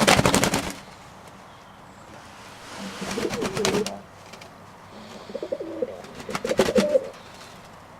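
Domestic pigeons cooing in low, rolling calls, twice in the middle stretch. Quick runs of sharp clicks or flutters come with them, the loudest right at the start.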